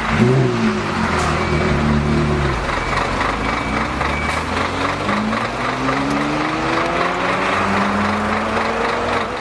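Porsche Carrera GT's V10 engine blipped once at the start, settling to a steady run, then pulling away with its pitch climbing steadily over the last few seconds.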